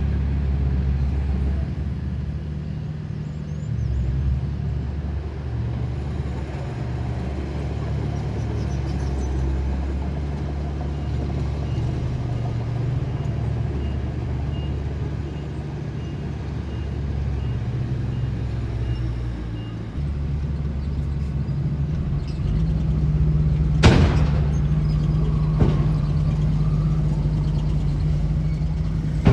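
Heavy diesel engines of a bulldozer and dump trucks running steadily. A reversing alarm beeps evenly for about eight seconds in the middle, and a single sharp bang comes about 24 seconds in.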